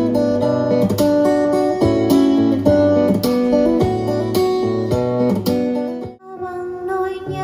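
Guitar-led music with plucked and strummed chords over a bass line, played back through a portable Bluetooth speaker for a sound test. The music dips almost out about six seconds in, then carries on more softly.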